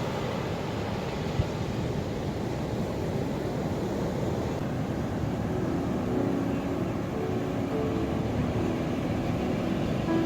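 Ocean waves washing ashore, a steady low rushing noise, with one brief click about a second and a half in. From about halfway through, a faint steady hum of a few pitched tones joins the surf.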